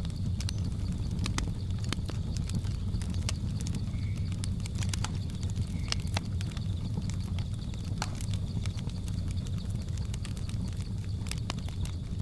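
Wood fire crackling, with irregular sharp pops and snaps over a steady low rumble of flames. A faint steady high buzz of jungle insects runs behind it.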